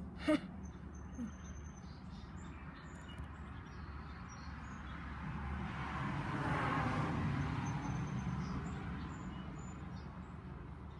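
A vehicle passing by, its noise swelling to a peak partway through and then fading, over a steady low hum. Faint high bird chirps come in the first few seconds, and a short sharp sound comes just after the start.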